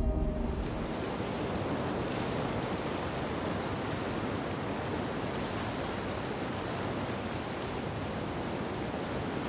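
Steady rushing wash of ocean waves, an even noise without distinct breaks.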